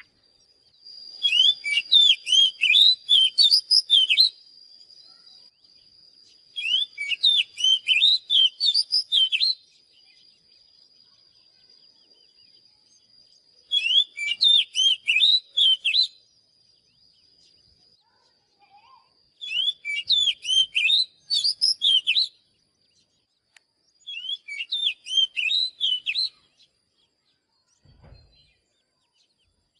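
Oriental magpie-robin singing in five bouts of rapid, varied whistled notes, each two to three seconds long with short pauses between. A faint steady high-pitched tone runs under the first three bouts and fades out after the third.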